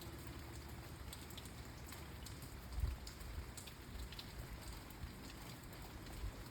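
Rain falling: a steady patter with scattered individual drops ticking, and a low thump about three seconds in.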